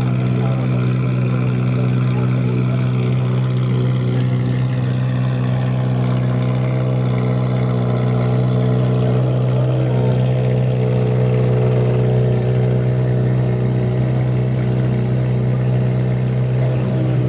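Ferrari 458's 4.5-litre V8 idling steadily through an aftermarket iPE exhaust, a deep even drone with no revving.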